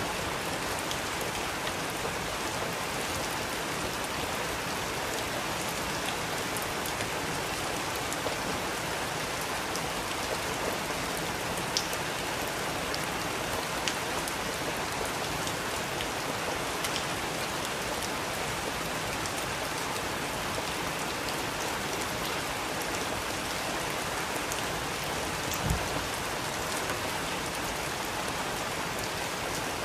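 Steady rain falling as an even hiss, with scattered louder drips ticking through it and one dull thump near the end.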